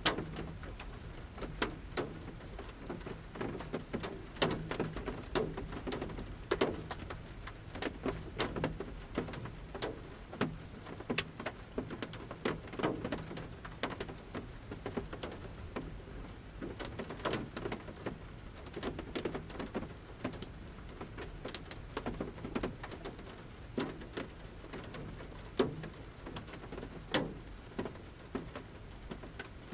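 Large raindrops falling from the forest canopy onto a camper van's metal roof, heard from inside: irregular sharp taps, some louder than others, over a soft steady hiss of light rain.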